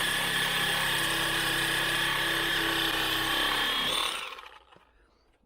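Power cutting tool running steadily while cutting through steel on a car's front suspension, with a high whine. About four seconds in it stops and spins down.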